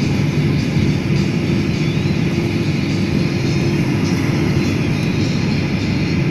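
Airliner cabin noise in flight: a steady rush of jet engines and airflow, with a low constant hum.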